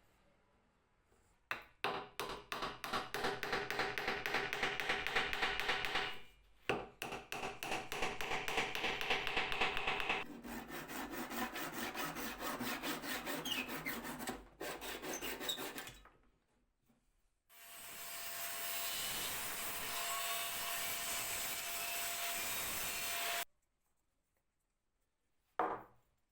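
A tool worked by hand over wood in rapid back-and-forth strokes, in three runs with short pauses between. It is followed by a longer stretch of steady, continuous rubbing with a faint held tone, and a brief scrape near the end.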